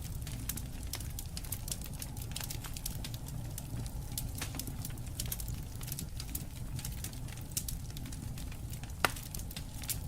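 Wood fire crackling, with frequent sharp pops and snaps over a steady low rumble. One pop, about nine seconds in, is louder than the rest.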